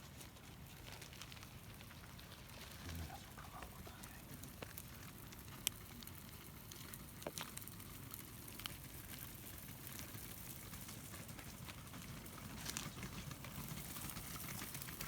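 Faint crackly clicks of a cat chewing its food, over a steady low rumble, with one sharper click about five and a half seconds in.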